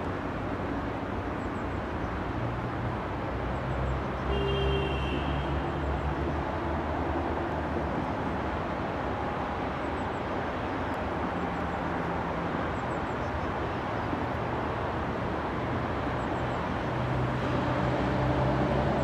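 Škoda E182 electric locomotive hauling a mixed freight train slowly toward the listener: a steady rumble of the locomotive and wagons with a low hum, growing louder near the end as it draws close. A brief high tone sounds about four and a half seconds in.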